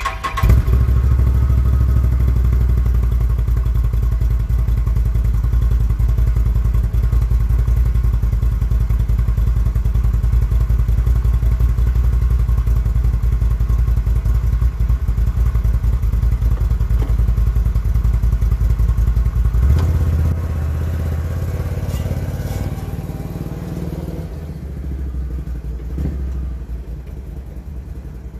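Can-Am Renegade XMR 1000 ATV's V-twin engine starting up and running steadily. About twenty seconds in the engine note changes and the sound gradually grows quieter.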